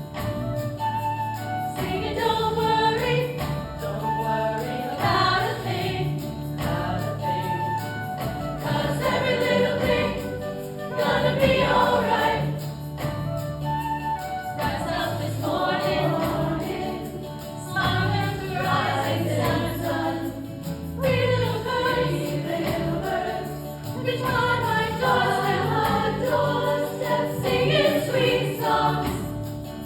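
Women's choir singing in harmony with instrumental accompaniment.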